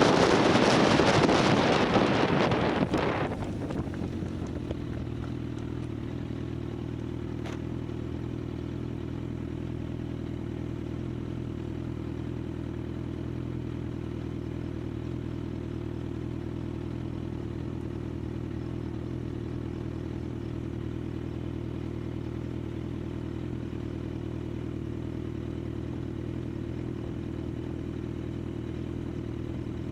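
Motorcycle engine and wind rush. Loud wind noise on the microphone dies away about three seconds in as the bike slows. The engine then runs steadily at low, unchanging revs, as at idle.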